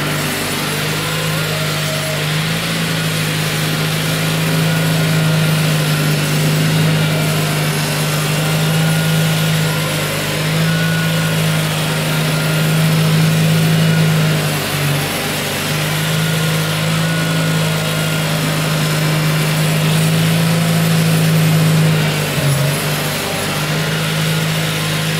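Tractor engine running steadily while pushing deep snow with a front plow, its note dipping briefly twice in the second half.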